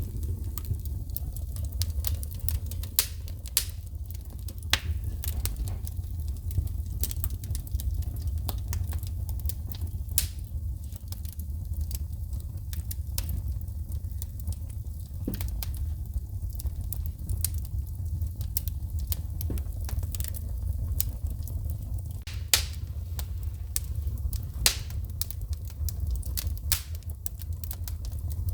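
Wood fire in a fireplace crackling, with frequent sharp pops of sparking wood and a handful of louder snaps over a steady low rumble.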